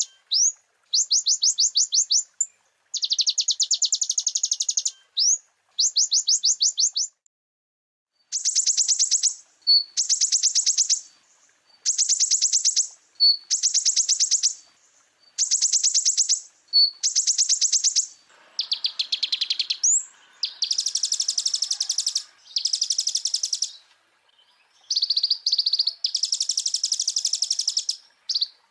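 A konin singing a loud, high, rapid trill in bursts of about one to two seconds, broken by short pauses. This is the 'full isian' master song, packed with varied phrases.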